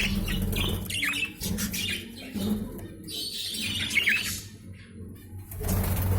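Budgerigars chirping and chattering in short, wavering calls, in bursts near the start and again between about three and four and a half seconds in, over a steady low hum.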